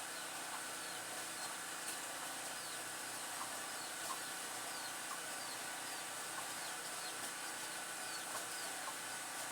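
A bird giving short, high, falling chirps about once a second over a steady background hiss.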